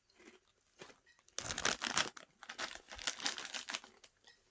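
Crisp packet crinkling and rustling as it is handled, in a burst starting about a second and a half in and lasting a couple of seconds.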